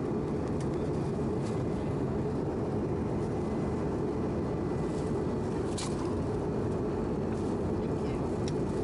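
Steady deep cabin roar of an Airbus A319-111 in flight, the rush of airflow over the fuselage mixed with its CFM56 turbofan engines, heard from a window seat during the descent. A brief rustle or click sounds about six seconds in.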